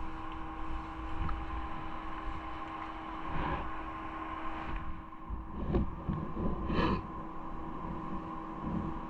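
Steady mechanical hum of several even tones over a low rumble, broken by three short noises about three and a half, six and seven seconds in.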